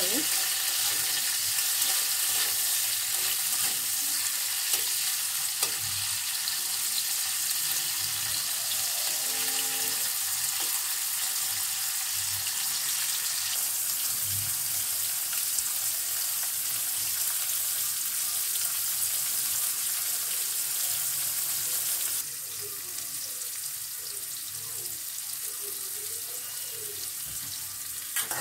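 Sliced bitter gourd sizzling as it fries in hot oil in an aluminium kadai, with occasional scrapes of a metal spatula stirring it. The sizzle drops abruptly to a lower level about three-quarters of the way through.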